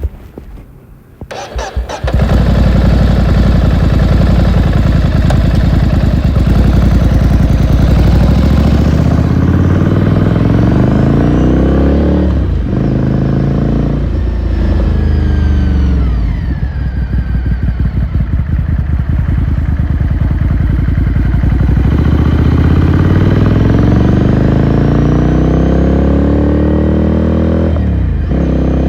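2018 Ducati Scrambler Sixty2's 399 cc air-cooled V-twin catching after a few clicks about two seconds in, running steadily for a few seconds, then pulling away with its pitch climbing in several runs, each cut by a short break as it shifts up a gear.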